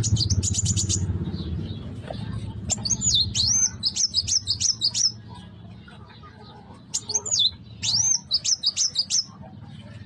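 Young kuwul bird singing: a quick run of high chips, then two phrases of rapid, high swooping notes a few seconds apart. A steady low hum runs underneath.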